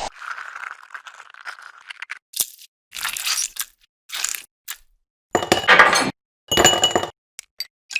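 Short clinks, cracks and rattles of kitchen utensils and dishes being handled, with two longer, louder clattering bursts past the middle that carry a faint ring.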